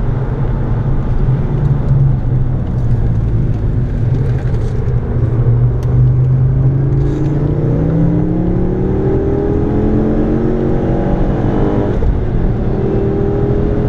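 Ford Focus ST engine heard from inside the cabin, with road and wind noise. It holds a steady note through a corner, then climbs in pitch under acceleration from about halfway. Near the end it drops at an upshift and starts climbing again.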